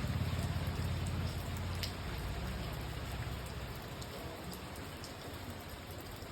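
Steady rain falling, with a low rumble that fades away over the first couple of seconds.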